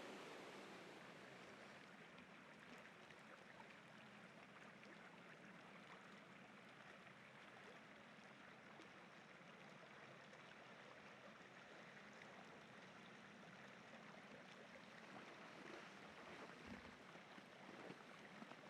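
Faint, steady rushing of river rapids. Near the end, light crunching footsteps in frozen snow begin.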